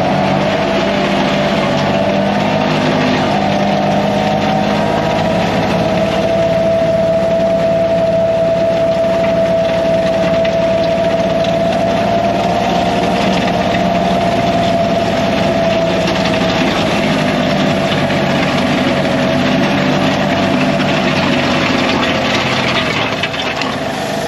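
Kioti CK3510SE compact tractor's three-cylinder diesel running steadily under load with a steady whine, while its land plane drags and scrapes through gravel.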